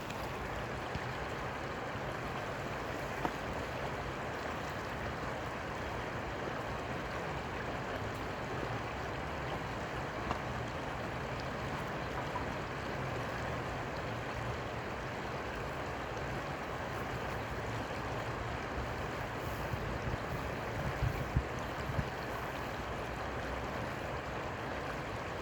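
Steady rushing of flowing water, an even noise that holds at one level throughout, with a few faint ticks.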